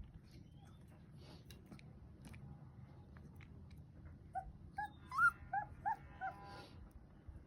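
A puppy whimpering: a quick run of six short, high-pitched cries a little past halfway, the third one loudest, over faint rustling.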